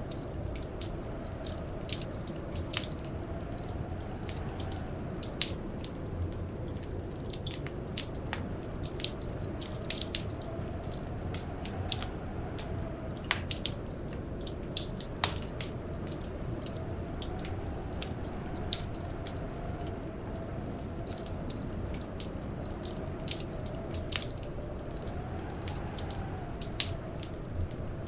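Wood fire crackling, with irregular sharp pops and snaps, over a steady low rumble of blizzard wind that carries a faint whistle slowly rising and falling.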